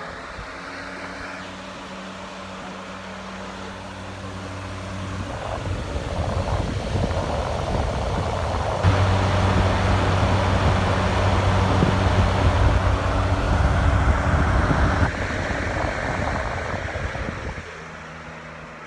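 Lasko B20200 box fan running loud: a steady motor hum under the rush of air from the blades. It grows louder about a third of the way in and again about halfway, then eases back near the end.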